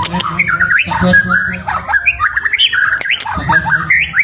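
White-rumped shama (murai batu) singing: a fast, varied run of whistled notes and chirps that rise and fall in pitch, with hardly a pause.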